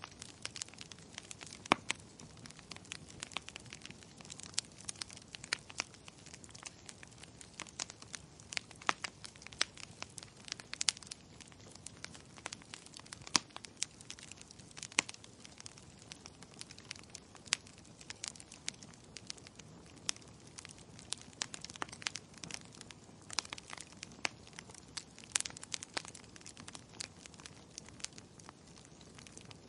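Wood fire crackling in a fireplace: irregular sharp pops and snaps, several a second and some much louder than others, over a soft steady hiss of the flames.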